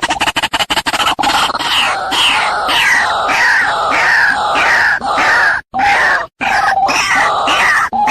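White-breasted waterhen (ruak-ruak) call played back as a bird-trapping lure: a rapid run of pulses in the first second, then loud, repeated harsh falling notes about twice a second, broken by two brief silences about halfway through.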